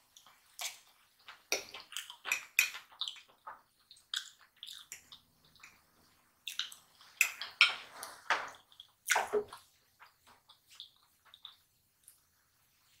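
Close-miked eating sounds of fried chicken and mashed potatoes being chewed: a run of irregular wet smacks and clicks of lips and mouth, sparser near the end.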